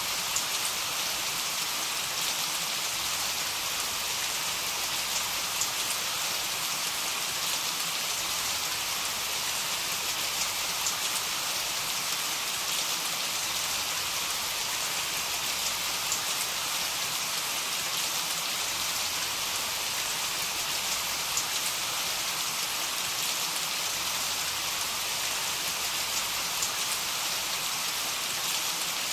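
Heavy rain falling steadily: an even hiss of rain with scattered sharper drop ticks and no thunder.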